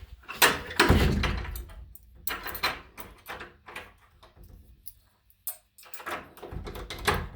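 Irregular knocks and clatter of a door and loose objects being handled, in several clusters with a short quiet spell in the middle. Two stretches of low rumble come with the louder clusters, about a second in and near the end.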